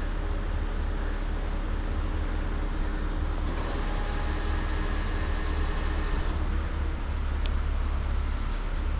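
Heavy truck diesel engine running steadily at idle, a constant low rumble with a faint hum above it.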